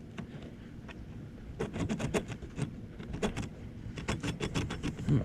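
Clicks, knocks and rattles of a seat fastener being handled and fitted into the seat track of a Jackson Bite kayak, a quick run of them starting about a second and a half in.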